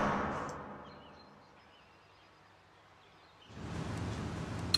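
The ringing tail of a heavy boom dies away, then a stretch of near silence with a few faint bird chirps. About three and a half seconds in, a steady outdoor woodland hiss begins.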